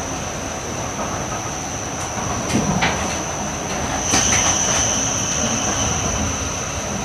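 Running noise of an E8 series Shinkansen train heard from inside a passenger car: a steady rumble of wheels on rail with a high steady whine that grows louder about four seconds in, and a few sharp clicks from the track.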